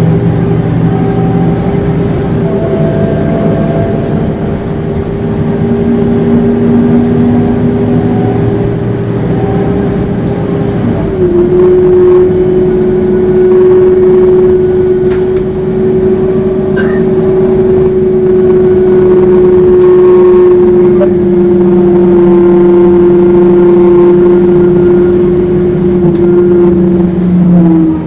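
Scania K230UB city bus driving with a loud, steady howl, the pitch stepping down slightly about eleven seconds in and then holding.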